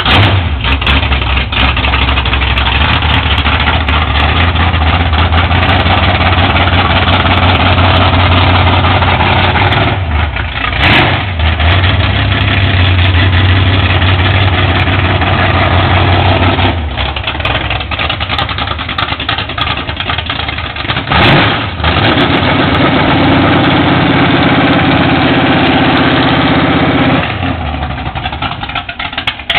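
1965 Ford Mustang's 408 cubic-inch stroker V8, built from a 351 Windsor, running loud as the car idles and moves off slowly. The engine sound drops for a few seconds past the middle and fades near the end.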